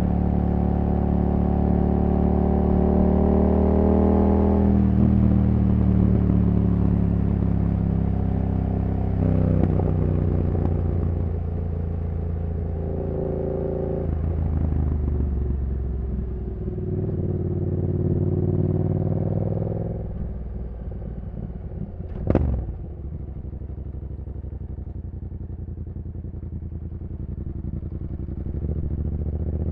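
2015 Yamaha MT-07's CP2 parallel-twin engine through a full race exhaust system, pulling through the gears, its pitch climbing and then dropping at each upshift, about 4 and 9 seconds in. It eases off to a lower, steadier run about 20 seconds in and builds again near the end, with a short sharp sound that rises and falls in pitch about 22 seconds in.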